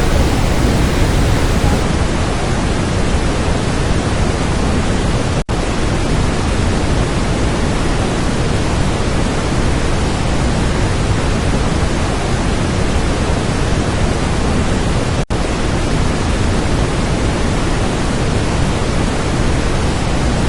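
Loud, steady roar of Niagara Falls' plunging water and spray, mixed with wind buffeting the microphone. It cuts out for an instant twice.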